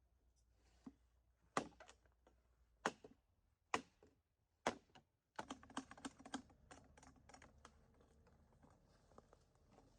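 Sharp knocks of hard objects: four spaced strikes about a second apart, then from about halfway a rapid run of lighter clicks.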